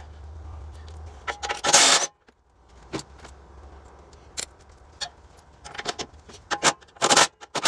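Metal tools and parts clinking and clanking in short, irregular bursts while a wood chipper mulcher is being taken apart by hand, over a faint low hum.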